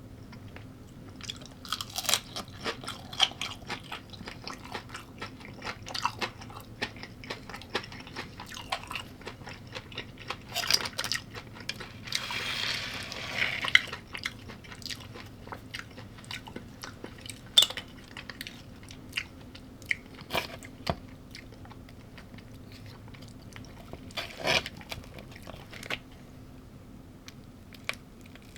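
Close-up eating sounds: irregular crunchy bites and chewing, with a longer crunching rasp lasting a couple of seconds near the middle.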